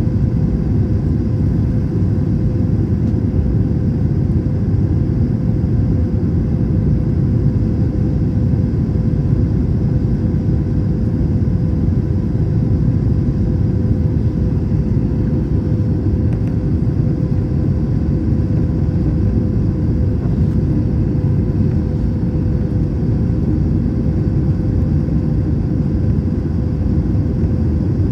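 Airbus A321 cabin noise in flight: a steady rumble of airflow and jet engines, with a steady low hum running through it.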